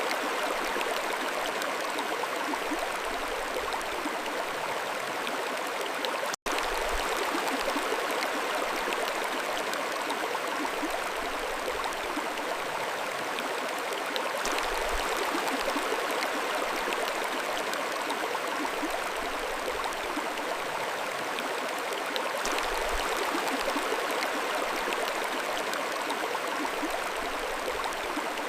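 Mountain stream flowing steadily, an even rushing water sound with no let-up, broken only by a split-second gap about six seconds in.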